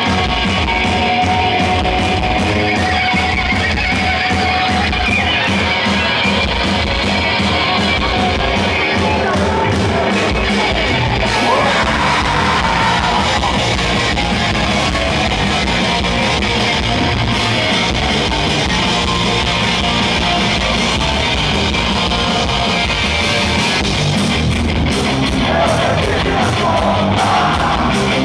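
Hardcore punk band playing live, loud: distorted electric guitars, bass and drums, with shouted vocals.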